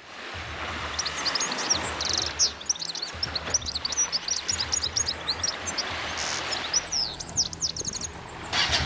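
Many birds chirping and trilling in quick, overlapping calls, over a low uneven rumble.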